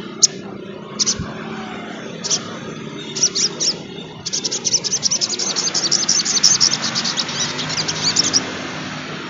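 Sogon trotol singing: a few separate sharp high chirps, then a fast, continuous high-pitched chattering run of about four seconds that stops abruptly. A steady low hum runs underneath.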